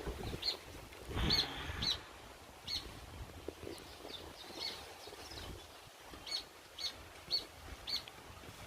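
A small bird chirping: short, high chirps repeated every half second or so. Under it runs a light wind rumble on the microphone, with a louder gust about a second in.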